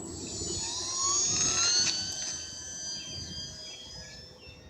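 Electric motor and propeller of a small UMX P-47 radio-controlled warbird flying: a high-pitched whine that swells about a second in, shifts in pitch, then fades as the plane moves away.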